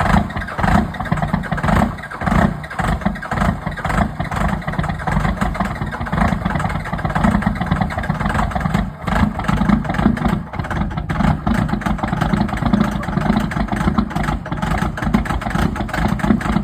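24-valve 5.9 Cummins inline-six turbodiesel running cold just after a cold start, idling steadily with a fast diesel knock.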